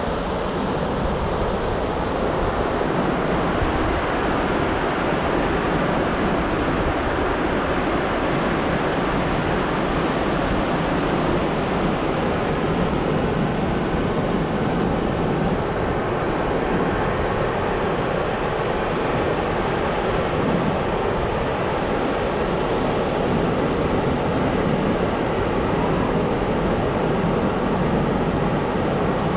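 Steady ocean surf washing onto the beach, mixed with wind on the microphone.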